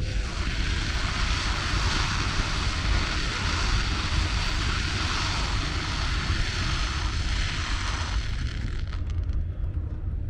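Fireworks crackling overhead: a dense, steady hiss of many small bursts that starts suddenly and fades out after about eight seconds, over a constant low rumble.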